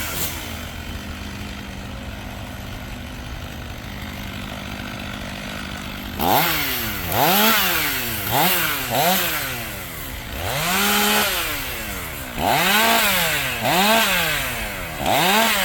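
Two-stroke chainsaw idling steadily for about six seconds, then revved up and down again and again in quick bursts as it cuts through the fallen oak's branches. There are about ten rises in pitch, one of them held at full throttle for nearly a second.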